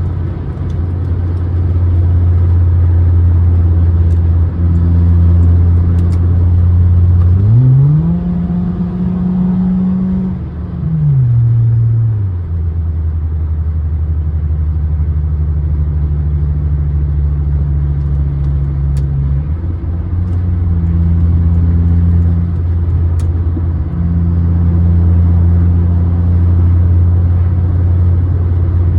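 Car engine running with a steady low drone, revved once about eight seconds in: the pitch climbs quickly, holds for about three seconds, then drops back to the steady running note.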